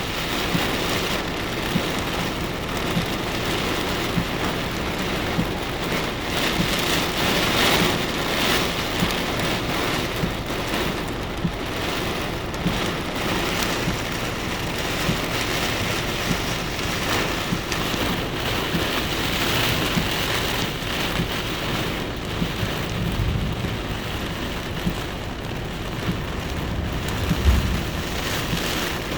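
Heavy rain pouring steadily, swelling and easing every few seconds in strong wind, with a brief low rumble near the end.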